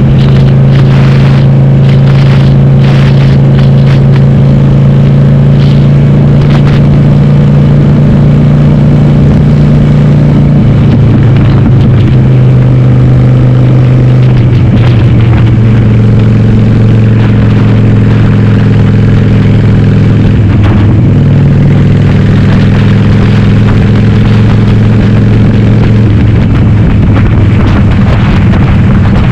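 Harley-Davidson Sportster's air-cooled V-twin, bored to 1200, running loud through a Cobra Speedster 909 exhaust with no dB killers while riding. The engine note holds steady, then changes pitch in steps several times.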